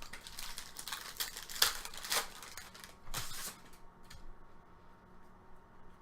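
Trading card pack wrapper crinkling and tearing in a run of sharp rustling bursts, loudest about a second and a half in and again around three seconds, then fading to faint handling of the cards.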